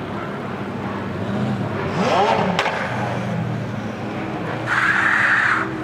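Porsche 992 GT3 RS flat-six with a loud aftermarket Brillsteel Edizioni Corsa exhaust running on track, its pitch climbing sharply about two seconds in as it revs up, with a sharp click just after. Near the end a loud hiss lasts about a second.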